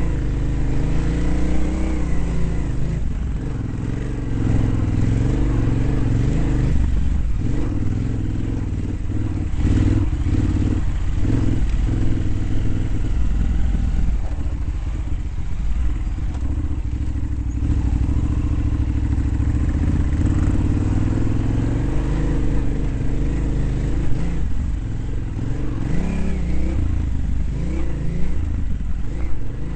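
Dirt bike engine running hard, its pitch rising and falling again and again as the throttle opens and closes.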